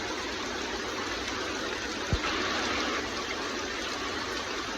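Steady hiss of water sprayed as artificial rain over a hill myna for its rain bath, with a single short low thump about two seconds in and the spray briefly louder just after.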